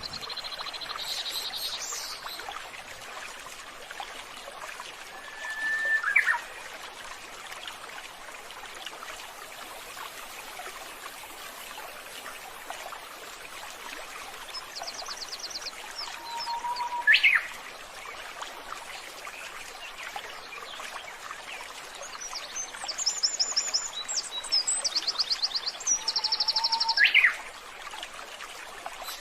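Birds calling: rapid high trills and short calls that sweep sharply upward, loudest about 6 s in, about 17 s in and in a run of trills near the end, over a steady trickle of running water.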